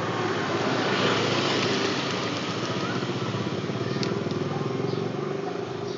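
A motor running steadily with a low, rapid, even throb.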